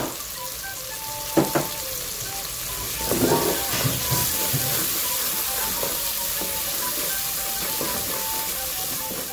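Aderezo of onion, ají amarillo and ground garlic sizzling steadily in oil in an aluminium pot, stirred with a wooden spoon.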